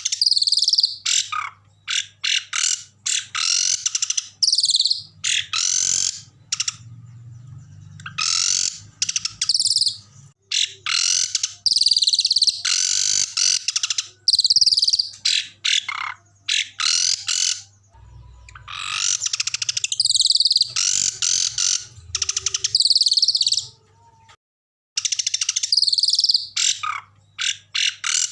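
Recorded calls of small songbirds edited into a masteran (tutor song for caged songbirds): loud, harsh high-pitched trills and sharp chirps in rapid bursts, separated by short gaps. A faint low hum lies underneath.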